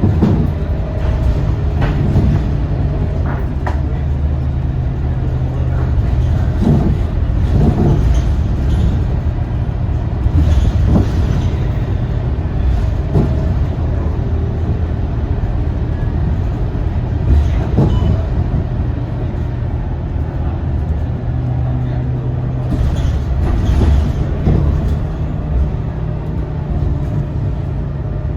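A Scania K230UB single-deck bus's engine running under way, its low note rising and falling as the bus speeds up and eases off. Short knocks and rattles come through at intervals over a steady rumble.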